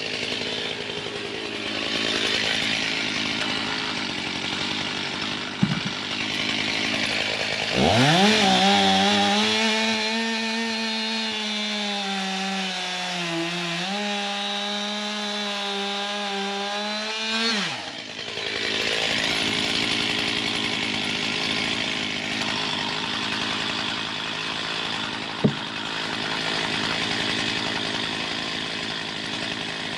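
Stihl chainsaw running at high revs, cutting wood. About eight seconds in, the engine pitch rises sharply and holds steady and clear for about ten seconds before falling back. There is a brief sharp knock twice.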